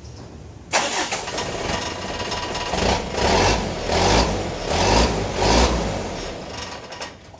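Vehicle engine running through an exhaust fitted with a homemade resonator made from an old oil filter shell, not yet welded on, to test its note. The sound comes in suddenly under a second in, then the engine is revved four times.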